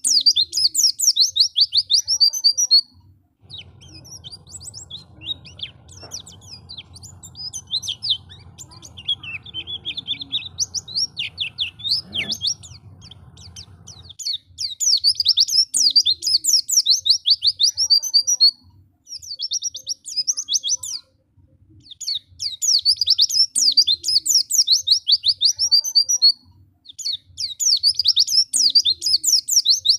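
White-eye (pleci) singing: fast, high twittering song phrases in loud bursts of a few seconds, separated by short pauses. From about 4 to 14 seconds in, the song is softer, over a low hum.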